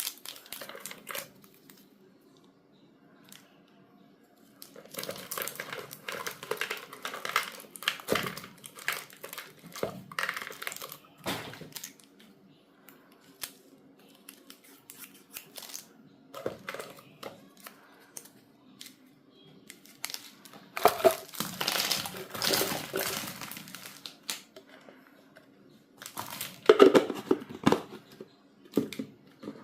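Packaging being crinkled and torn open by hand, in stretches of rustling broken by short pauses.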